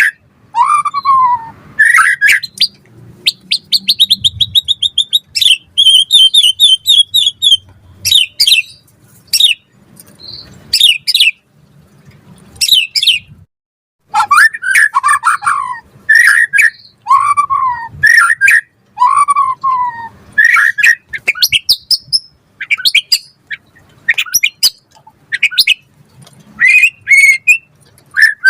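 White-rumped shama (murai batu) singing a loud, varied song. Down-slurred whistled notes alternate with fast rattling trills, with a brief pause about halfway through.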